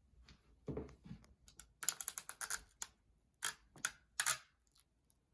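Roll of sticky tape being picked up and handled: a soft knock, then a quick run of sharp clicks and crackles, and a few more separate clicks.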